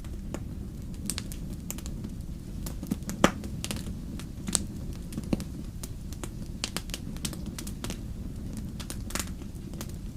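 Wood campfire crackling, with irregular sharp pops, the loudest about three seconds in, over a steady low rumble.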